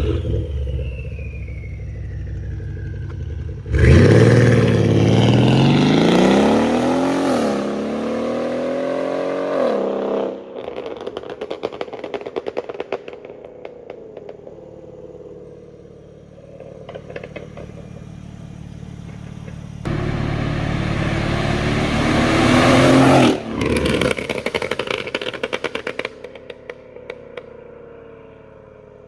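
Mercedes CLS550's twin-turbo V8 with downpipes accelerating hard twice, its note rising through each pull. Each pull is followed by several seconds of crackles and pops on the overrun.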